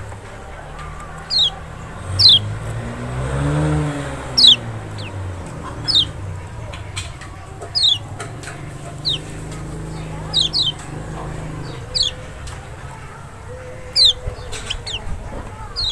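Lemon-bellied white-eye (kecial) giving short, high, sharply falling call notes about once a second. A rooster crows in the background a few seconds in.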